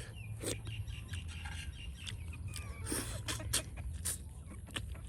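Scattered short bird chirps and clicks over a steady low hum.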